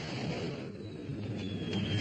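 A rocket hissing with a low rumble, joined about a second and a half in by a high whistle that slides slowly down in pitch.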